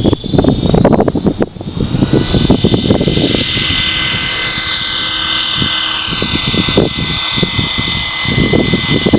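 Blue Ray 450-size radio-controlled helicopter spooling up for takeoff: a whine that rises in pitch for about a second and a half, then holds steady as the rotors reach speed. Strong wind gusts buffet the microphone throughout.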